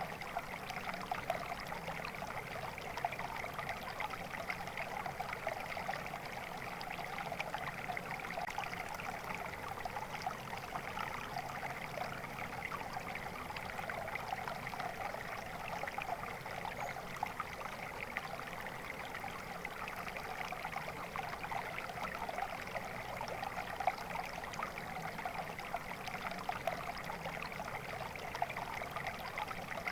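Flowing water in a stream, a steady babbling and splashing.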